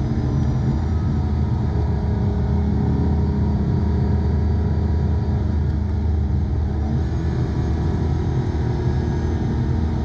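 Porsche 911 (997) Carrera 2S flat-six engine running at a steady engine speed, a constant drone over road noise.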